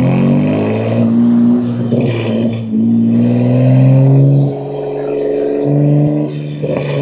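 BMW M2 G87's S58 twin-turbo inline-six, running catless downpipes and an equal-length mid pipe, pulling under acceleration with a manual gearbox: the engine note climbs, then drops back briefly at each of a few gear changes before climbing again.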